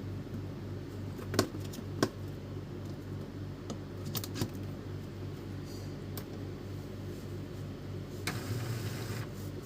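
A few sharp clicks and taps of printer parts being handled during reassembly, over a steady low electrical hum, with a short rustle near the end.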